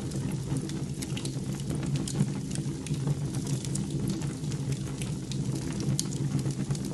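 Fire crackling in a fireplace, with irregular sharp pops over a steady low hum.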